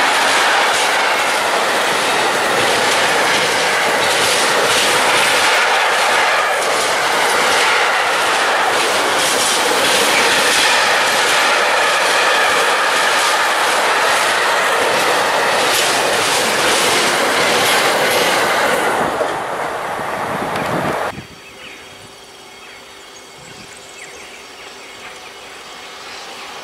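Wagons of a long intermodal freight train rolling past at close range, steady loud wheel-and-rail noise with rapid clacks over the rail joints. About 21 s in it cuts off abruptly to a much quieter background that slowly swells as another train approaches from a distance.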